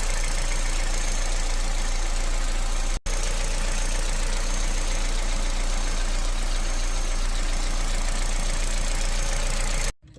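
Opel Astra H 1.4 16v petrol engine idling, a steady, noisy sound cut off briefly about three seconds in; the rough idle is the sign of a faulty brake servo check valve.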